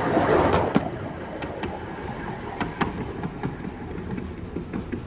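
Miniature railway train passing directly overhead: a loud rumble for about the first second, then the wheels clicking on the track as it draws away and fades.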